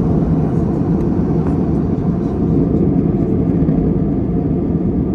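Airbus A321neo cabin noise in cruise: the steady low rumble of the engines and the airflow past the fuselage.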